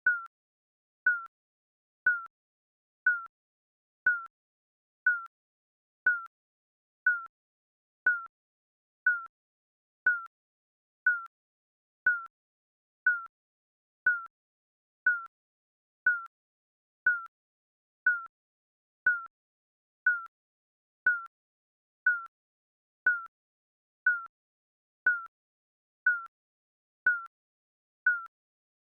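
Digital countdown timer beeping once a second: a short, high single-tone electronic beep with a quick fade and silence between beeps.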